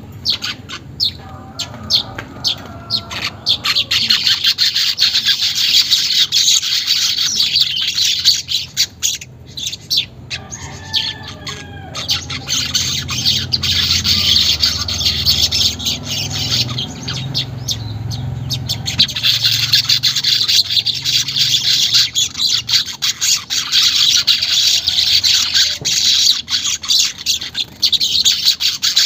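Manyar weaver birds chattering in long runs of rapid, buzzy twittering, the 'ngeriwik' song. The chatter thins out for a few seconds midway, then picks up again.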